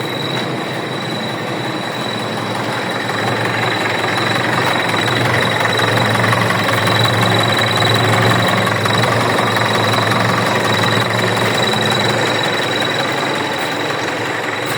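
Fiat 700 tractor engine running steadily. It grows somewhat louder a few seconds in, then eases back a little.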